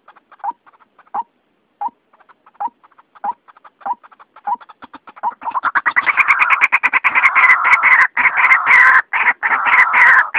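White-breasted waterhen (ruak-ruak) calling. Short spaced notes come about one and a half a second, then about five seconds in they break into a fast, loud, continuous run of 'ruak-ruak' calls. This is a lure call used to draw waterhens in.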